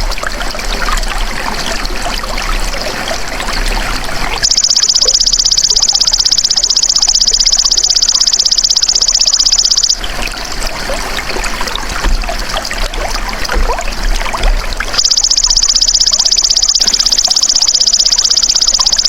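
A belalang emas (golden grasshopper) calls twice: a high, rapidly pulsing buzz starting about four seconds in and lasting about five seconds, then starting again about fifteen seconds in. Water trickles steadily underneath.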